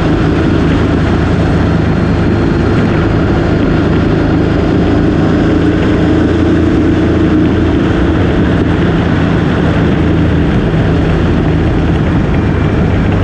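Motorcycle engine running at a steady, nearly constant pitch while riding, under a continuous rush of wind noise.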